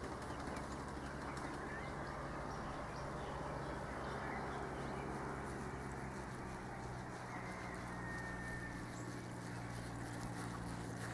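Faint, scattered bird calls, a few short chirps, over steady background noise and a low hum.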